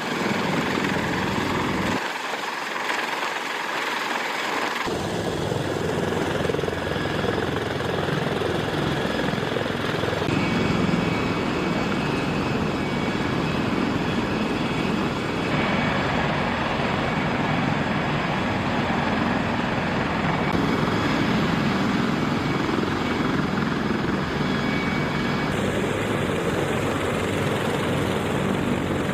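Sikorsky CH-53K King Stallion heavy-lift helicopter running, its rotors and three turboshaft engines making a loud, steady noise. The sound changes abruptly every few seconds.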